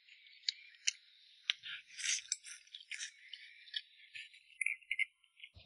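Faint, irregular crunching and crackling of someone chewing crunchy food close to the microphone.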